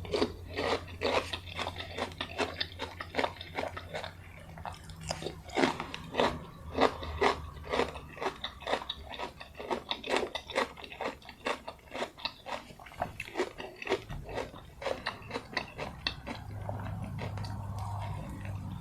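Close-miked chewing of crunchy food, with crisp wet crunches coming about two to three a second and thinning out near the end.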